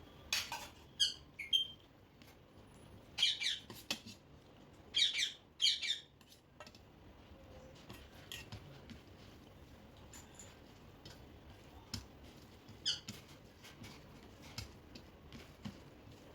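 A pet parrot giving short, shrill squawks and chirps in scattered bursts, most of them in the first six seconds, with another about thirteen seconds in.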